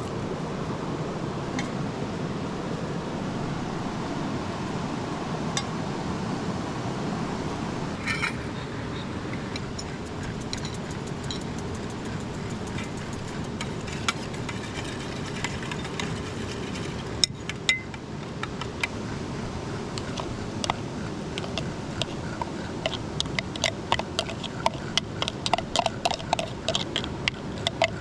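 Steady rushing of a river, with light clinks and taps of cooking utensils that come thick and fast over the last few seconds.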